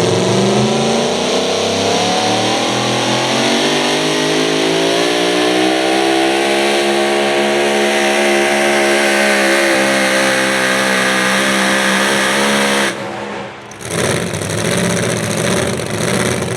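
Super modified four-wheel-drive pulling truck's engine at full throttle down the track, its pitch climbing over the first several seconds and holding high, then cutting off abruptly about thirteen seconds in as the run ends.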